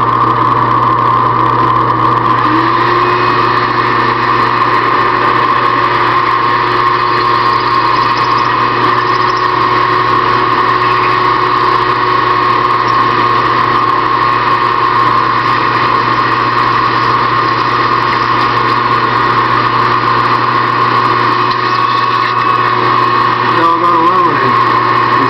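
Small benchtop machine tool's electric motor running at a steady whine while a drill bit cuts into aluminium.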